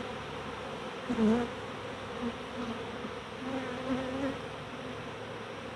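A swarm of honey bees buzzing around an opened hive: a steady hum, with a louder low buzz swelling and fading a few times as bees fly close by.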